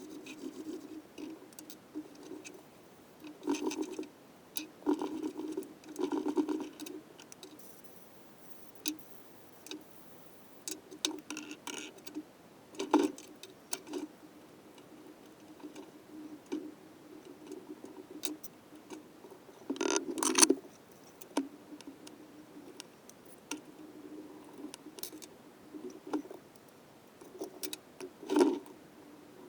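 Intermittent clicks, taps and short clatters of metal tools and engine parts being handled, loudest about two-thirds of the way through and again near the end.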